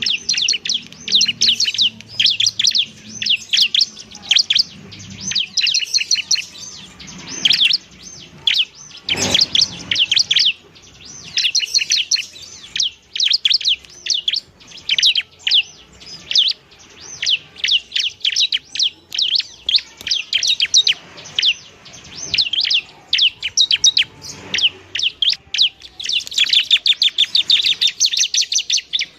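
A ciblek (prinia) singing vigorously: rapid runs of short, sharp, high chirps, packed into a dense fast burst near the end.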